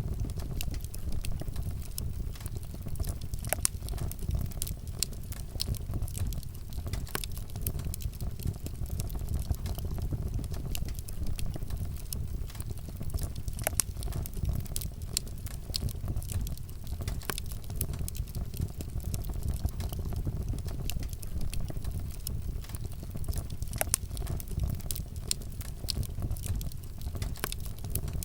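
Wood fire burning, with a steady low rumble of flames and frequent sharp crackles and pops from the burning wood.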